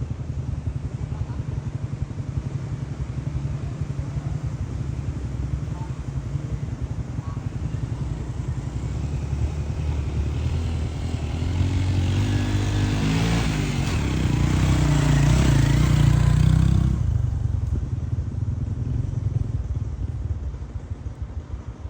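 Motorcycle engine running steadily, then rising in pitch and loudness as it is throttled up about twelve seconds in. It is loudest just before it drops off suddenly near the end, falling back to a lower steady running sound.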